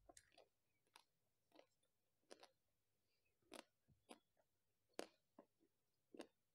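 Faint, close-miked mouth sounds of someone chewing ice cream: about ten sharp, wet clicks and smacks at an uneven pace, roughly one every half second to second.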